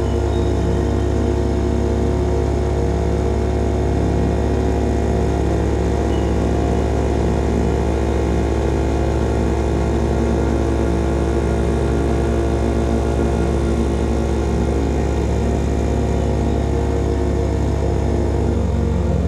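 Small single-cylinder motorcycle engine running at steady revs through an aftermarket slip-on exhaust, a constant drone of engine and exhaust note while cruising.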